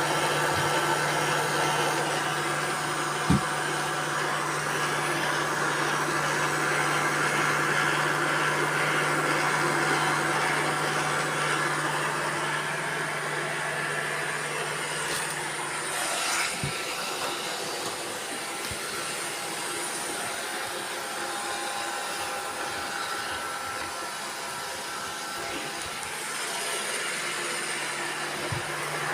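Several robot vacuum cleaners running at once: a steady whirr of suction motors and brushes. There is a sharp knock about three seconds in, and a low hum drops out a little past halfway.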